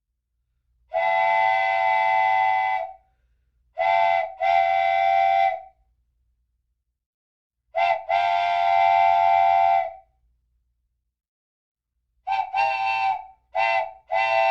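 A horn sounding a steady chord in repeated blasts. There are two long blasts of about two seconds each with shorter ones between them, then a quick run of four short toots near the end.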